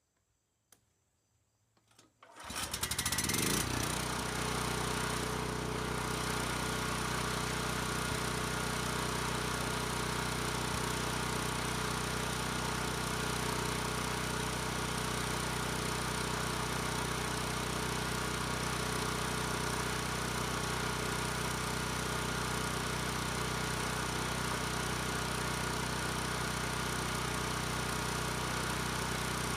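Sportsman 9000-watt portable generator engine starting about two seconds in, its speed rising quickly, then running steadily under governor control.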